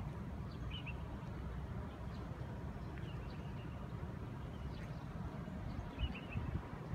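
Small birds chirping, with short trills about a second in and again near six seconds, over a steady low rumble. A few low thumps come about six seconds in.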